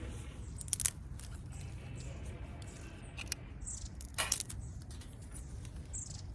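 Wood fire in a fire pit crackling: a few sharp pops at uneven intervals over a low steady rumble.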